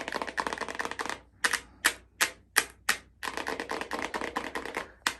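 Long fingernails tapping for ASMR, clicking on a hard surface. A fast patter of clicks gives way to five slower single taps about a second in, then the fast clicking returns, with one more tap near the end.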